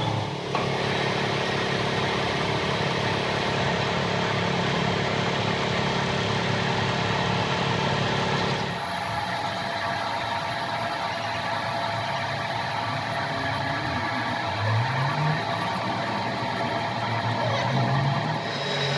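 A motor running steadily. The sound changes about nine seconds in, and later comes two short rising sweeps in pitch.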